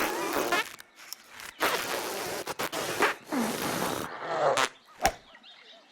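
Cartoon sound effects and animal vocal noises: a string of short noisy rushes with squeaky sliding cries, and a sharp hit about five seconds in.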